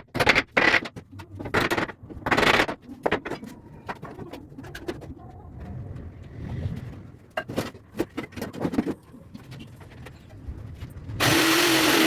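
Wood and tools knocked and clattered on a workbench in quick, uneven strikes. Near the end a power tool's electric motor switches on abruptly and runs loud and steady.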